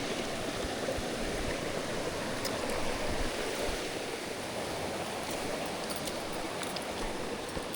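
Mountain stream water flowing, a steady rush, with a few faint ticks in the later part.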